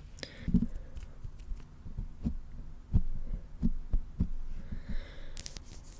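Gentle ASMR tapping on the microphone: about six soft, dull thumps at uneven intervals with light clicks, and a quick cluster of crisp clicks near the end.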